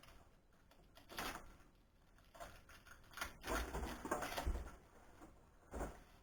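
Workshop handling noises: a few separate knocks and scrapes of metal parts or tools, with a busier run of clatter in the middle, as a band saw is dismantled.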